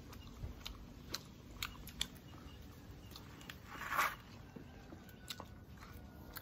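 A person eating close to the microphone: chewing, with scattered small clicks and one louder, short noisy sound about four seconds in.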